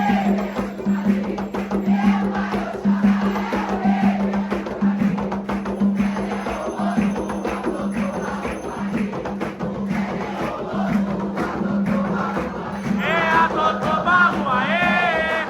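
Umbanda devotional music: percussion and shakers keep a steady beat while a group sings. A single voice sings out clearly near the end.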